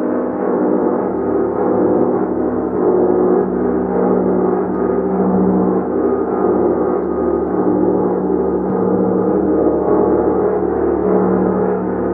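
Gong played in a continuous wash, its dense overlapping tones ringing and swelling steadily without a break.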